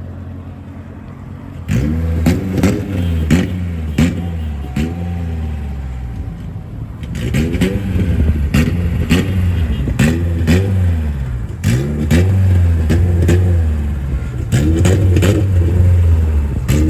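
Car engine being revved repeatedly in quick blips, about two a second, with sharp cracks or pops along with the revs. It starts about two seconds in, eases off briefly, then comes back louder.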